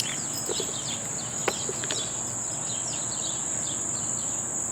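Insects trilling steadily at a high pitch, with birds chirping in short falling notes and a single sharp click about a second and a half in.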